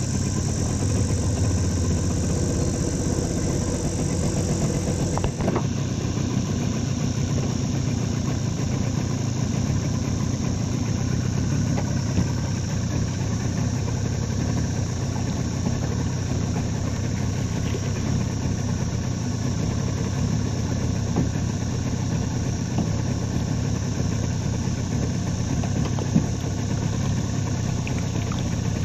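Outboard motor on a small aluminium boat running steadily at low speed.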